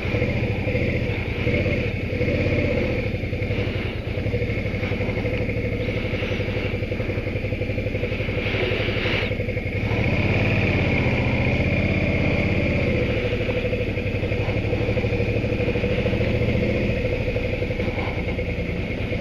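Motorcycle engine running steadily, its pitch wavering a little about halfway through.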